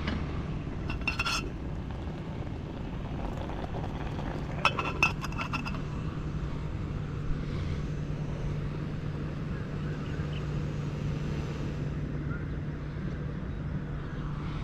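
A few light clinks, one cluster about a second in and another about five seconds in, over a steady low rumble with a faint low hum.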